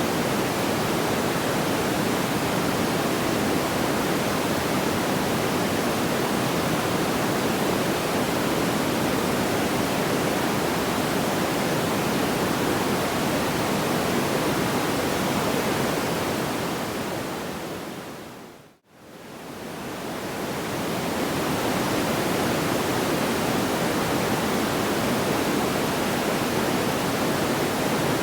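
Steady, even rushing noise like pink noise, without distinct crackles or pops. About two-thirds of the way through it fades smoothly down to near silence and fades back up, a seam where the loop restarts.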